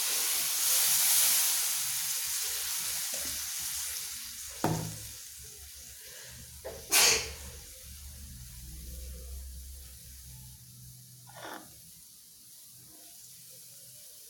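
Sizzling as water hits hot sautéed spice paste in a frying pan, a loud hiss that dies down over the first few seconds. A few sharp knocks follow, the loudest about seven seconds in.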